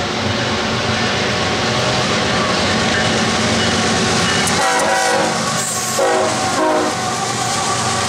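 BNSF double-stack freight train's diesel locomotives approaching and passing at speed, with steady engine and rail noise. The locomotive horn sounds in a few blasts around the middle.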